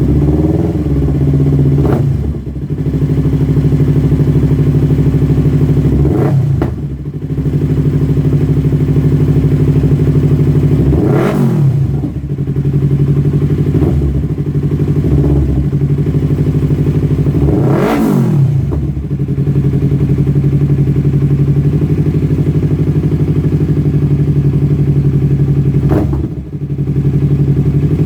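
A 2015 Yamaha R3's 321 cc parallel-twin engine running through an aftermarket exhaust. It holds a steady note, broken a few times by a brief rev up and back down and a couple of short drops in loudness.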